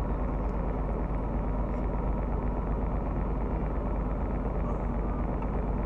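Steady low rumble of a car engine idling, heard from inside the parked car's cabin.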